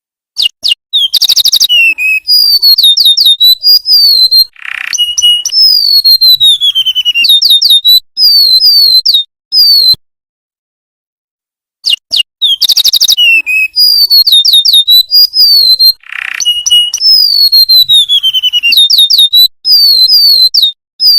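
Golden-bellied gerygone (remetuk laut) song from a looped recording: thin, high whistled notes sliding downward, with a quick trill and a buzzy lower note. The same sequence of phrases plays twice, with a silent break of about two seconds between.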